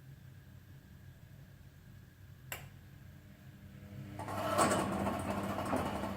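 Privileg washing machine running with a low hum and a single click, then a loud metallic noise with a fast rattling texture sets in about four seconds in and lasts a couple of seconds: the noise the owner traced to the machine's drive V-belt.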